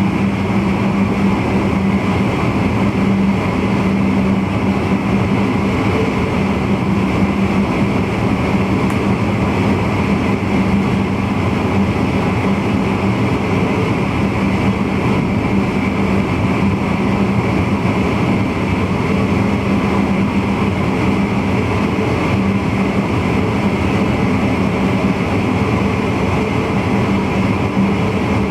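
Steady running noise heard in the driver's cab of a VIRM double-deck electric intercity train travelling along the line: continuous wheel-on-rail rumble with a steady low hum.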